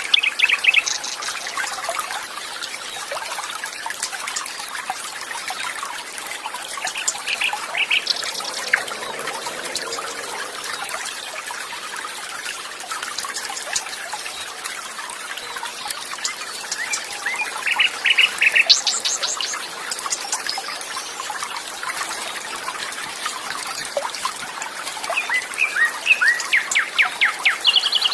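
Water trickling and flowing steadily, with birds singing over it in short runs of rapid chirps and trills every several seconds, busiest near the middle and toward the end.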